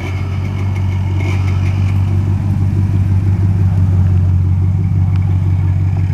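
Classic car's engine running at low revs with a steady low rumble as the car rolls slowly past close by, growing louder over the first second.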